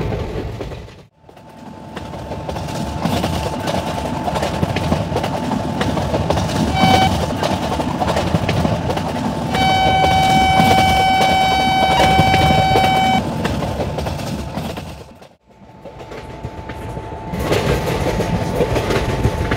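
Indian Railways train running past with the rumble and clatter of its wheels. The locomotive's horn gives a short toot about seven seconds in, then a long steady blast of about three and a half seconds. The sound drops out abruptly twice, about a second in and near fifteen seconds.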